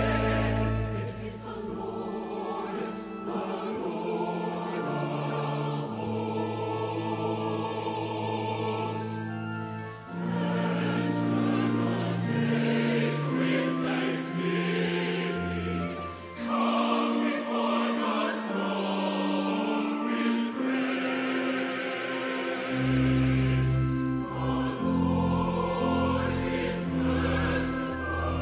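Choral singing with orchestral accompaniment: long held notes over sustained low bass tones, with a brief dip in level about ten seconds in.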